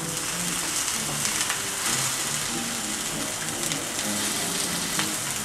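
Chicken cutlets sizzling steadily in hot oil in a frying pan, with a few faint clicks of a metal spatula in the pan as they are turned.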